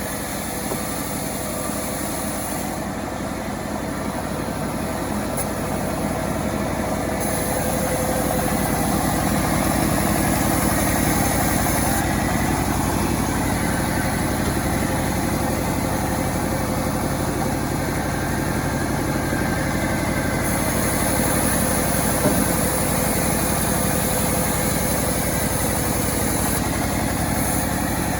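Self-assembled chainsaw's engine running steadily, growing a little louder over the first several seconds and then holding level.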